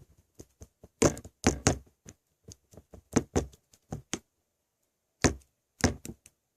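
Slime being played with by hand: an irregular run of short pops and clicks, the loudest cluster about a second in and a few more near the end.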